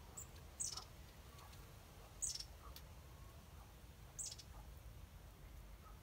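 A small bird calling: a short, high, slightly falling note repeated three times, about two seconds apart, over a faint low background rumble.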